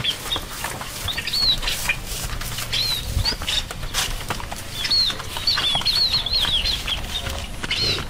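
Small birds chirping: runs of short, high, arched chirps, several in quick succession, recurring throughout, with a few faint clicks in between.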